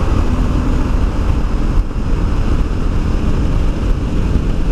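Honda Deauville's V-twin engine droning steadily under heavy wind rush on the microphone, at motorway speed.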